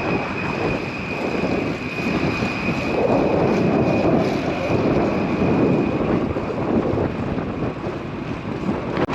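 Wind rushing and buffeting over the microphone of a moving bicycle ridden into a strong headwind, swelling louder in the middle, with a thin steady high tone that fades out about two-thirds of the way through.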